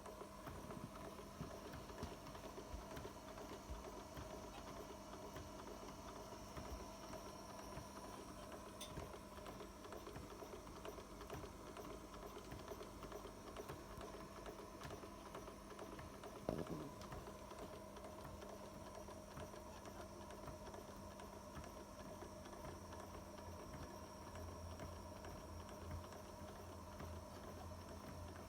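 Carette toy hot air engines running together: a faint, steady light clicking and clatter of their small mechanisms over a low hum. A brief gliding sound comes about halfway through.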